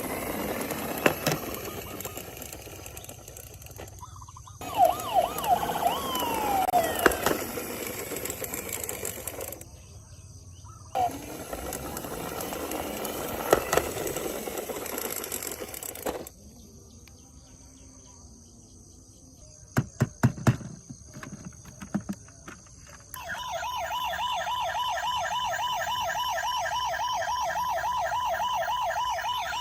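Sound effects from toy vehicles in several short segments, with a few falling siren-like swoops and some sharp clicks. For the last several seconds an electronic toy siren wails with a fast, even warble.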